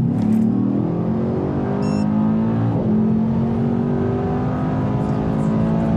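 Mercedes-AMG E63 S's 4.0-litre twin-turbo V8 at full-throttle acceleration, heard from inside the cabin. The engine note climbs steadily, drops sharply at an upshift about three seconds in, then climbs again.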